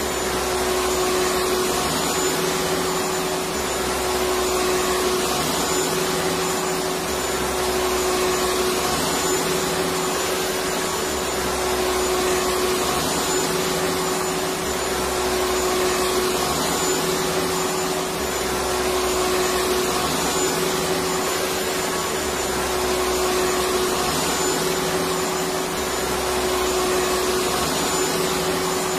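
Electric vacuum cleaner running continuously: a steady rush of air with a constant motor whine, and a faint low throb that swells and fades every couple of seconds.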